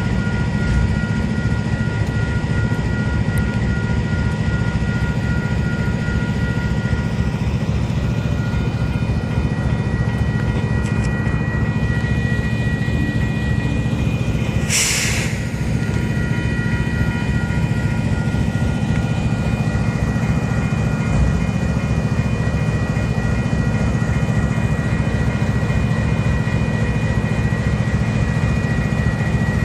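Steady low rumble of a train standing at a level crossing, with steady high ringing tones over it and a short hiss about halfway through.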